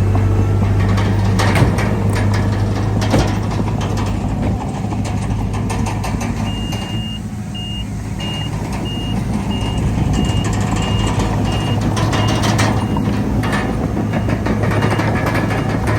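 Heavy diesel earthmoving machinery running steadily with scattered metal clanks. A reversing alarm beeps about twice a second for several seconds in the middle.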